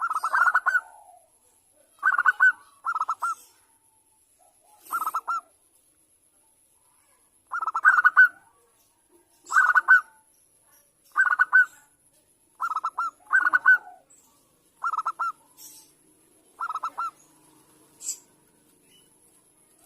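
Female zebra dove (perkutut) calling: short phrases of rapid, staccato cooing notes, about eleven of them one to two seconds apart, stopping a few seconds before the end.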